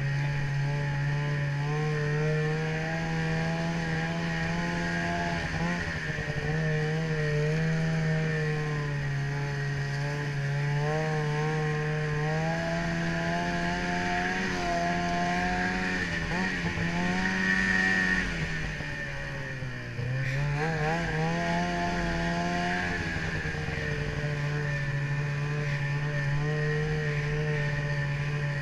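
Ski-Doo snowmobile engine running at a steady cruise. About two-thirds of the way through it revs higher, drops off briefly as the throttle eases, then picks back up to the same steady pitch.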